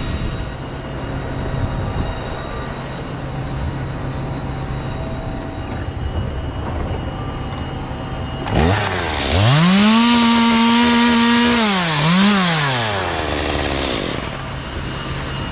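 Two-stroke chainsaw revved up to full throttle for a few seconds, dipping briefly and rising once more before dropping back, over a steady low engine drone.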